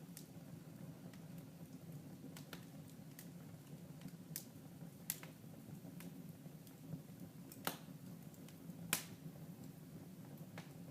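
Fire in a fireplace crackling, with sparse sharp pops over a steady low background. The loudest pops come about five, seven and a half and nine seconds in.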